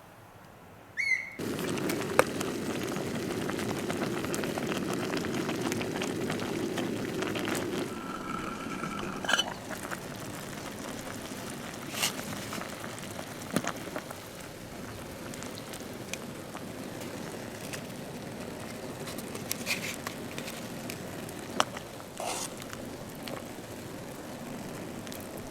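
Campfire burning: a steady low rushing with scattered crackles and pops, starting abruptly about a second in.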